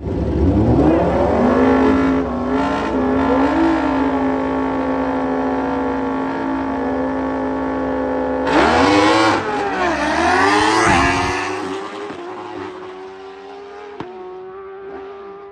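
Drag-racing motorcycles running hard down the strip: engine pitch climbs over the first couple of seconds, then holds a steady high note. About eight and a half seconds in, the sound gets louder and sweeps in pitch as they go past, then fades as they slow.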